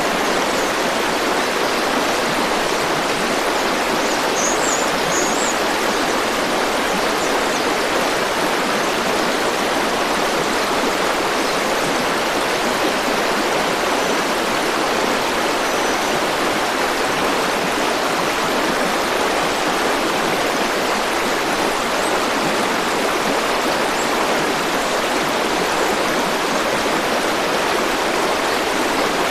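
A river or stream flowing steadily, an even water rush with no changes.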